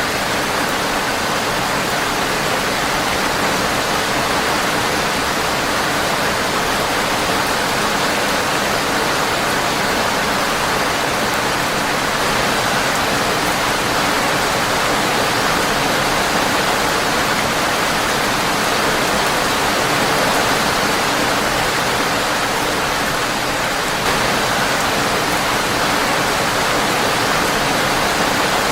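Rain falling steadily on a windowpane: an even, unbroken hiss.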